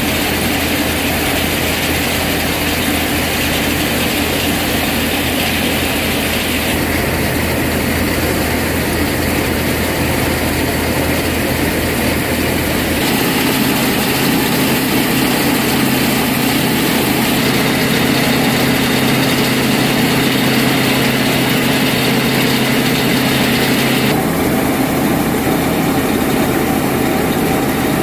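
Tractor-driven multi-crop thresher running steadily: the Farmtrac 45 tractor's engine and the thresher's machinery together make a continuous mechanical din. The sound changes abruptly a few times.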